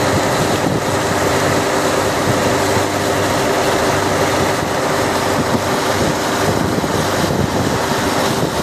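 Fishing boat's engine running steadily under heavy wind on the microphone and rushing water.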